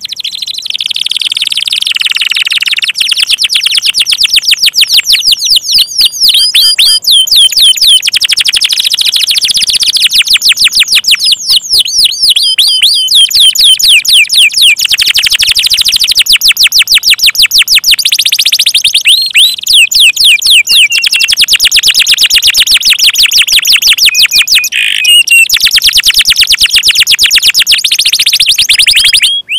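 Domestic canary singing in long, rapid trills: fast runs of high repeated chirping notes that change speed and pitch from phrase to phrase, broken by a few short pauses.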